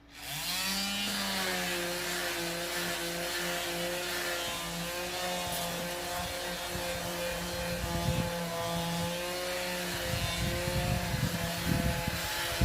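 Electric disc sander switched on, spinning up quickly and then running at a steady speed with a steady whine. About ten seconds in, a rough, uneven scraping joins as the sanding disc is pressed onto the wood.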